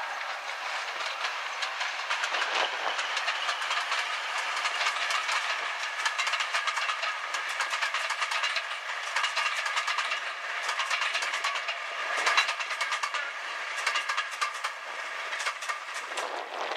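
Diesel-hauled passenger train passing close by: the coaches roll past with rapid, continuous clicking of wheels over rail joints and a steady rumble of running gear on the track, easing off near the end as the last coach goes by.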